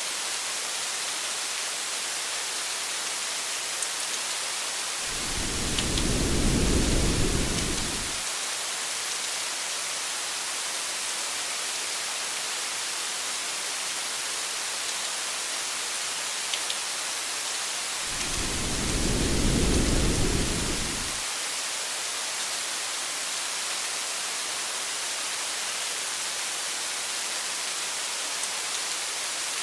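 Steady rain hiss, with two low rumbles of thunder, each lasting about three seconds, about five seconds in and again near eighteen seconds.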